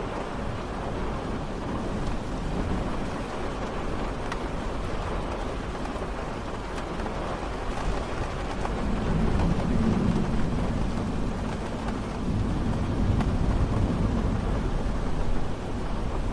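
Steady rain falling, with a low rumble that builds about halfway through and runs on to the end.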